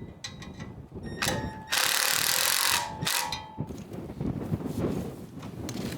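Power driver with a bit driving screws in short runs: a brief whirring run about a second in, a louder harsh run around two seconds in, and another brief whirring run about three seconds in, followed by lower clattering.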